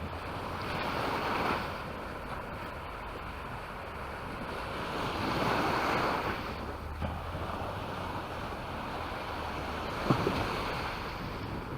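Waves breaking and washing up a beach, with two surges of surf a few seconds apart over a steady hiss. A brief sharp knock near the end.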